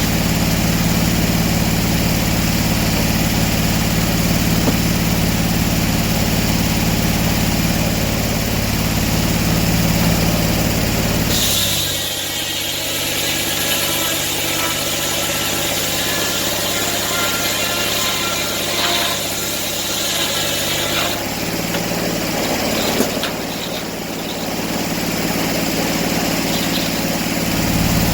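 An engine running steadily with a low hum. About eleven seconds in, the low hum drops and a high hiss takes over for about ten seconds. The full hum returns near the end.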